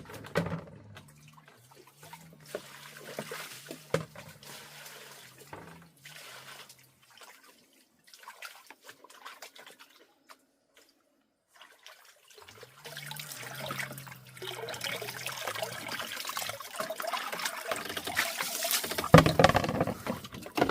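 Water trickling and pouring, with small knocks, growing louder in the second half.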